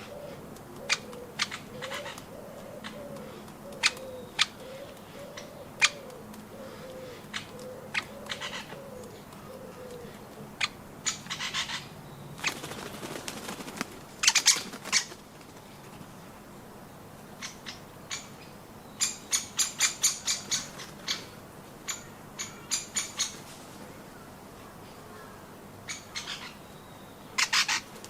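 Woodpeckers pecking at nuts: scattered sharp taps, with a quick run of about a dozen taps about two-thirds of the way through. A low, wavering bird call runs underneath for the first third.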